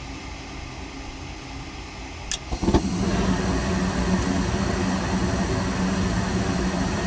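Gas furnace burners lighting on a retry of the ignition cycle: a sharp click, then a sudden rush of burning gas with a steady low hum. The furnace is cycling on a fault, which is suspected to be the blower motor.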